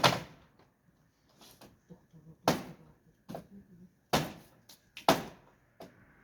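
Sharp wooden knocks and bangs, four loud hits a second or two apart with lighter clatter between: a wooden bed frame being pulled apart and struck by hand.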